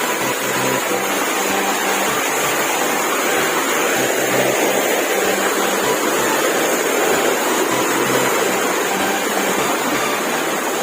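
Waterfall water rushing over rock in a steady, unbroken noise.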